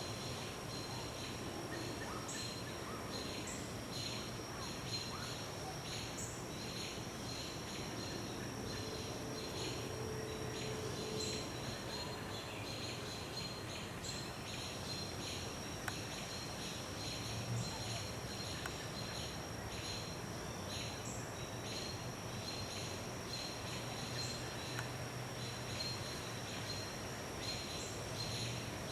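Evening woodland ambience: scattered bird calls over a steady high-pitched insect drone and a regular, repeating chirping. The drone drops out for a couple of seconds about twelve seconds in.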